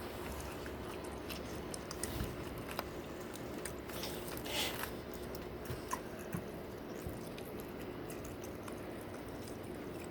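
A man biting and chewing food close to the microphone, with small wet mouth clicks and smacks.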